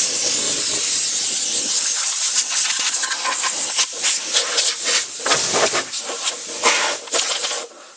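Loud hissing noise that surges irregularly, starting suddenly and cutting off near the end.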